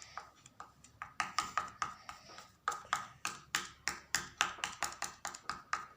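Paintbrush dabbing on a canvas board: quick, even taps, about four a second, starting about a second in, the stippling used to build up texture.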